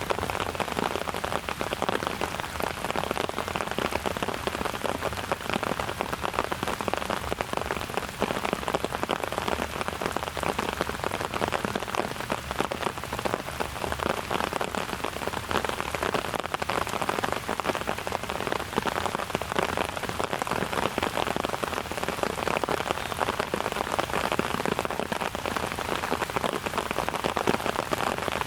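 Steady rain falling, with many individual drops ticking close by over the even hiss.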